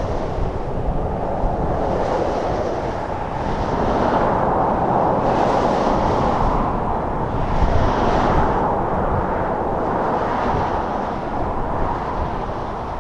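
Narrow-gauge steam train running, led by K-37 locomotive No. 493: a steady rumble with a hissing surge every couple of seconds.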